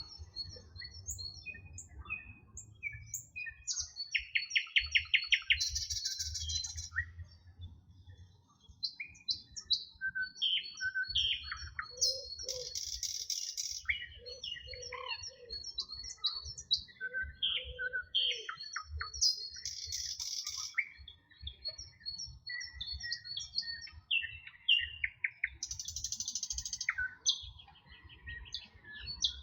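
Several songbirds singing together: overlapping short chirps, whistled glides and rapid buzzy trills that recur every few seconds. A low rumble runs underneath.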